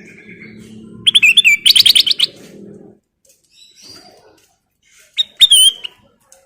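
Kutilang emas (a bulbul) singing in short bursts: a fast run of bright notes about a second in, a softer phrase near the middle, and another bright phrase near the end. A low steady hum runs under the first three seconds.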